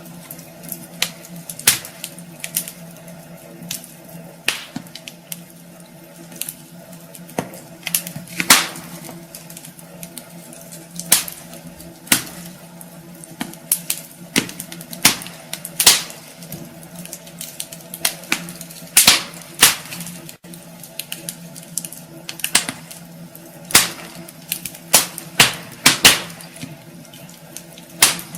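Wood fire crackling in a fireplace: irregular sharp pops and snaps, sometimes in quick clusters, over a soft hiss, with a faint steady hum underneath.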